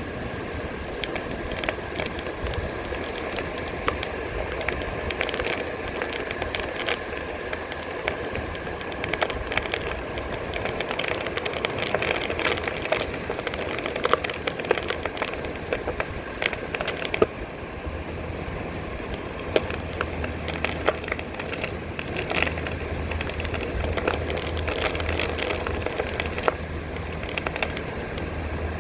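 Onewheel electric board's tyre rolling over shell-strewn beach sand, a dense crackle of small crunching snaps. Wind rumbles on the microphone from about two-thirds of the way through.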